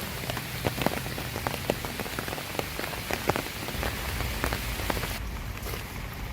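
Steady rain, with a hiss and many separate drops pattering close by. About four seconds in, a low rumble comes in and the high hiss thins out.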